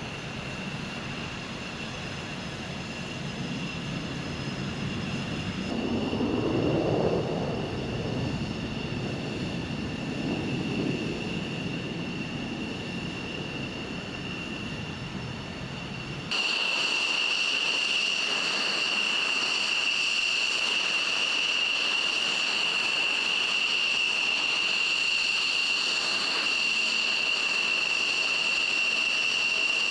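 Jet engine of a Saab JAS 39 Gripen fighter running, a steady high whine over a low rumble that swells and fades in the first half. About halfway through the sound cuts abruptly to a louder whine with little rumble beneath it.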